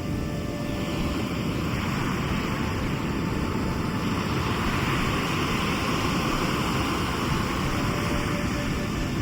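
Sea surf: a steady low rumble of waves, with a hiss of water washing in that builds from about a second in and eases near the end.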